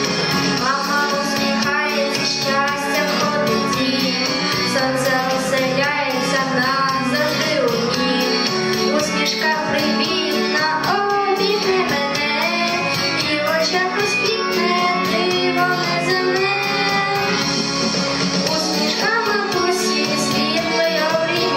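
A song: a child's voice singing a melody over guitar accompaniment.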